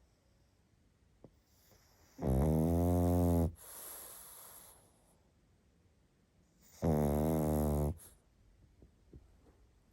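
Pug snoring: two loud snores, each just over a second long, about four and a half seconds apart, the first followed by a softer breath out.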